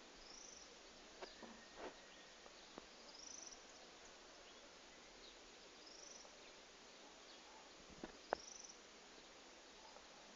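Quiet background with a faint, short, high chirp repeating four times, about every three seconds, and a few soft clicks between them.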